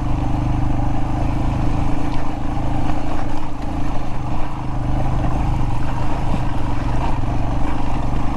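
Royal Enfield Himalayan's single-cylinder engine running steadily while being ridden, heard under a continuous rush of wind and riding noise.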